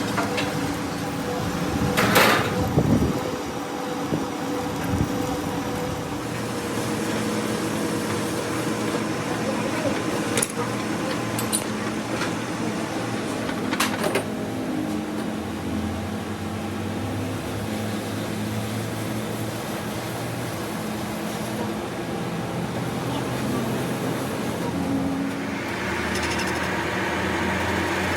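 Workshop machinery running with a steady hum, with a few sharp metallic knocks, the loudest about two seconds in.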